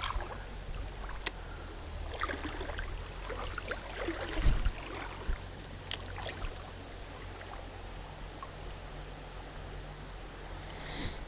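Water sloshing and splashing as someone wades through a shallow creek, with scattered light clicks and one dull thump about four and a half seconds in.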